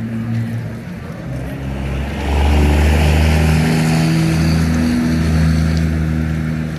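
Train passing close by: a diesel locomotive engine runs with a low, shifting drone along with a hiss of wheels on rail. It gets louder about two seconds in.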